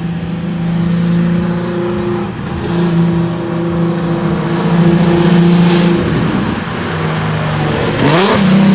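A car engine running at steady revs as the car moves slowly, with a short rise in revs about eight seconds in.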